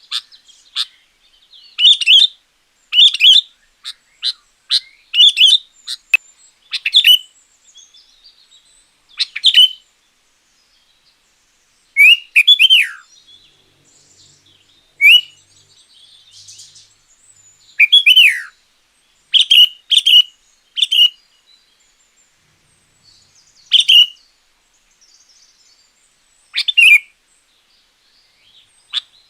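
Sooty-headed bulbul (kutilang) singing loudly in short phrases of a few quick notes, repeated every second or two with pauses between, some phrases ending in a downward slur.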